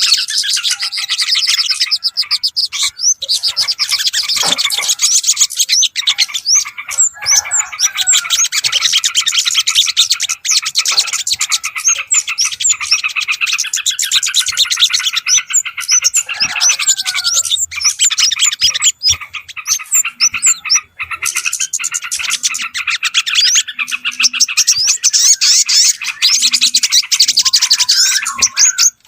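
Dense chorus of many small songbirds chirping and twittering rapidly and without pause, a bird-lure recording of the kind played to draw in yellow-vented bulbuls and other small birds.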